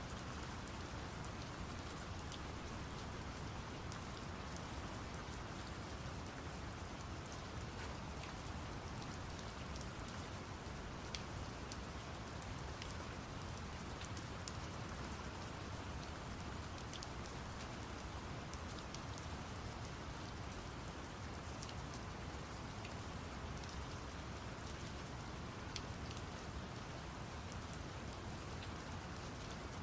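Steady rain falling, with scattered drop ticks, laid over a constant low brown-noise hiss.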